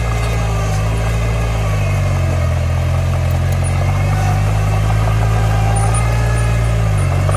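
Diesel engine of earthmoving machinery running steadily. Its pitch shifts slightly about two seconds in and dips briefly near the end.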